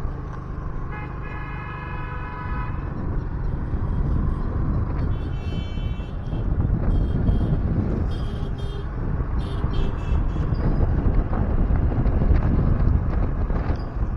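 Road traffic heard from a moving two-wheeler: a steady low rumble of engines and tyres, with vehicle horns honking over it. A held horn blast comes about a second in, a higher-pitched one around five seconds, and several short toots follow.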